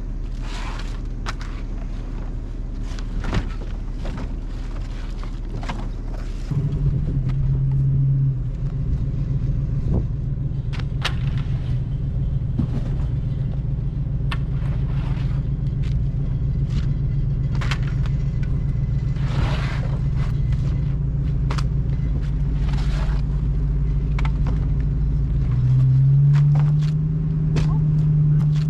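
Truck engine running, its pitch stepping up about six seconds in and again near the end as it picks up speed, with scattered knocks and rattles over it.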